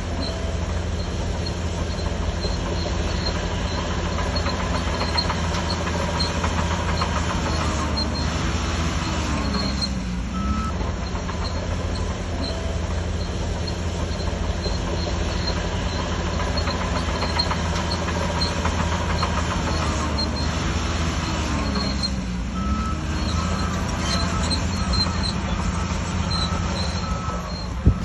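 Shantui DH17C3 bulldozer working under load: a steady diesel engine note with the clatter of its steel tracks, the engine dipping and recovering twice. A faint repeating beep runs through the later part.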